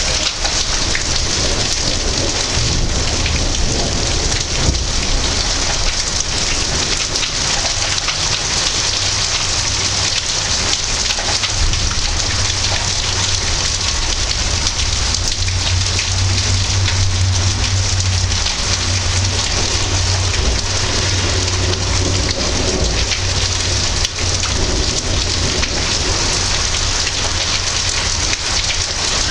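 Heavy rain falling steadily, with a deep low rumble of thunder that builds up in the middle of the stretch and then fades back.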